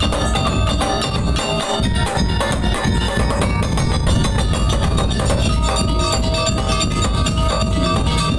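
Madurese daul music: a percussion ensemble playing continuously, with dense drumming under a melody on tuned mallet percussion.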